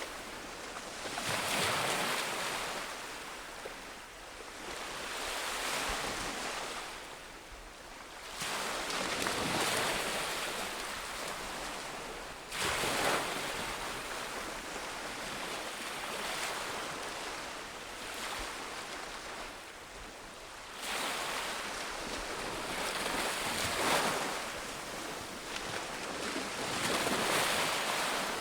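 Ocean waves breaking on a beach, the surf swelling and falling back every few seconds, with a sharper crash about halfway through and another about three-quarters of the way in.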